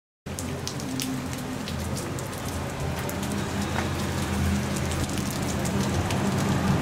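Rain falling steadily, with many sharp drop hits, over a low steady hum of a vehicle engine running.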